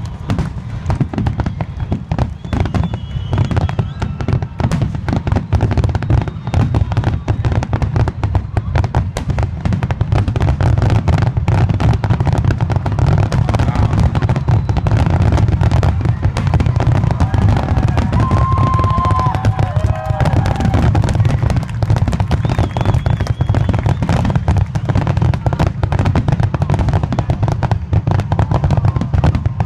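Fireworks finale: a dense, unbroken barrage of aerial shell bursts, rapid bangs overlapping into a continuous low rumble that grows louder about ten seconds in.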